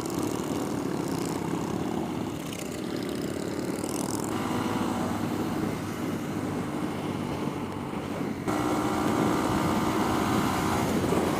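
Honda Grom's small single-cylinder engine running under way, with wind rush over it. The engine note changes about four seconds in and again about eight seconds in.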